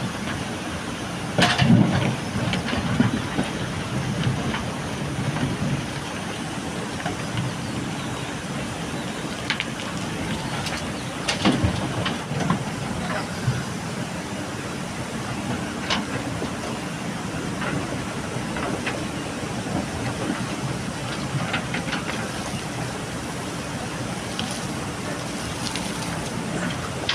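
JCB backhoe loader's diesel engine running steadily as it works, with occasional sharp clanks from the machine and its bucket.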